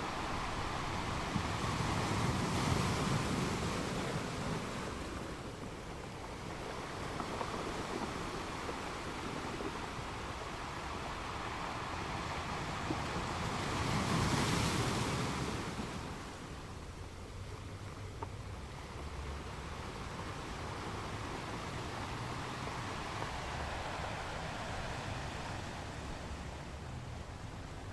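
Sea waves washing in steadily, with two louder surges of surf, one a couple of seconds in and one about halfway through.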